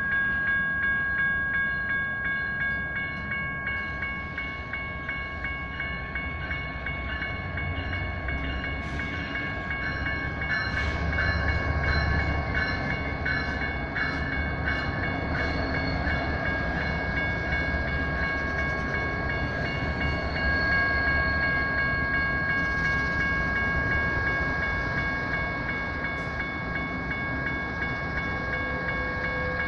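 Electronic crossing bells (General Signals Type 1) ringing steadily at a grade crossing while a train rolls past, with a low rumble and bursts of wheel clicks over the rails.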